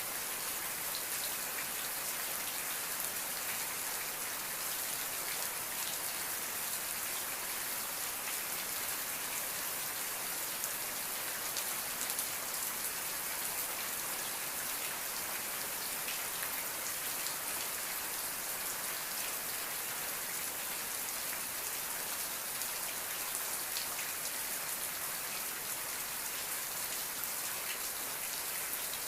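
Steady rain falling and pattering on a surface, a constant hiss with fine scattered drop ticks.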